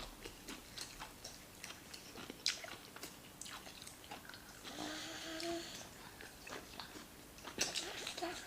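Close-up eating sounds: chewing, with many short, irregular mouth clicks and smacks as rice and stew are eaten. A brief hummed "mm" comes about five seconds in.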